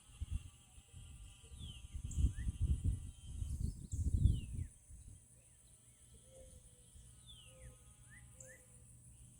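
Outdoor wildlife ambience by standing rainwater: a steady high-pitched trill and repeated short falling calls, with bursts of low rumbling in the first half that stop a little under five seconds in.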